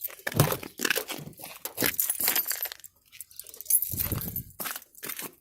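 Keys jangling and clinking as they are handled: a run of irregular short clinks and knocks.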